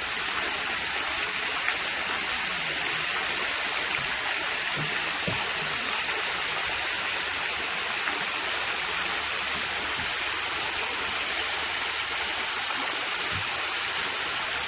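Waterfall water pouring steadily, a continuous rushing hiss.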